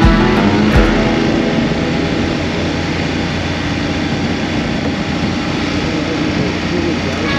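BMW F 850 GS parallel-twin engine running through an Akrapovic slip-on exhaust, heard on board while the motorcycle is ridden at low speed, with steady road and wind noise. There are a couple of low thumps in the first second.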